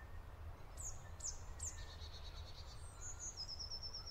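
Faint songbird calls: three quick high notes, each a sharp downward sweep running into a short trill, then a run of rapid high chirps near the end, over a steady low rumble.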